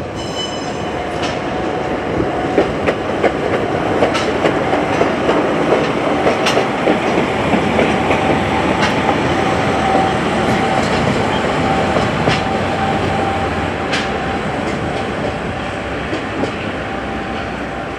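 A train rolling past close by, its wheels clicking over rail joints. A steady whine runs through the passing.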